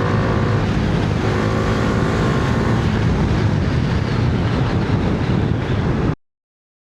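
Bajaj Dominar 400's single-cylinder engine running at speed, its note mostly buried under steady wind rush on the microphone. The sound cuts off suddenly about six seconds in.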